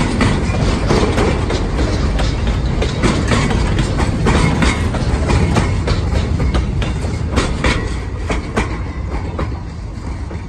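Train wheels clicking over rail joints with a steady rumble as flatcars roll past close by. The sound fades near the end as the last car goes away.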